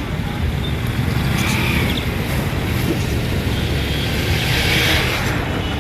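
Steady low rumbling background noise, with faint brief high-pitched sounds about a second and a half in and again near the end.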